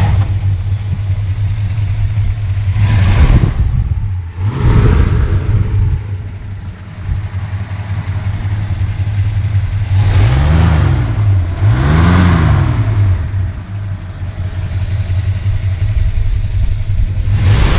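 1960 Dodge Dart Pioneer's 318 V8 idling, revved briefly a few times, with two quick throttle blips about a second and a half apart near the middle, the revs rising and falling each time.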